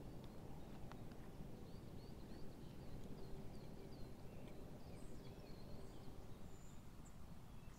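Small birds calling in woodland: many short, high chirps and twitters scattered throughout, over a steady low background rumble.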